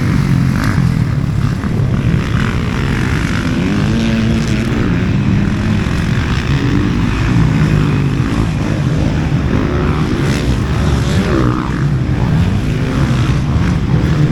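A vehicle engine running steadily, its pitch rising and falling with the throttle, over a constant rush of wind noise.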